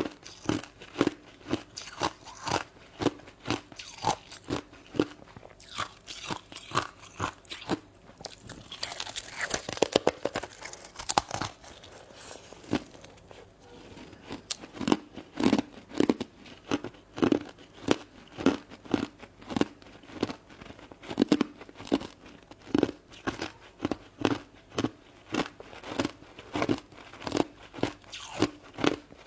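Shaved ice being bitten and chewed close to the microphone: crunches at a steady rhythm, about two to three a second, with a denser burst of crackling about ten seconds in.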